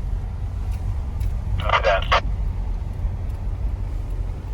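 Steady low rumble of a Jeep's engine and tyres on a snowy road, heard from inside the cabin, with a brief snatch of voice about two seconds in.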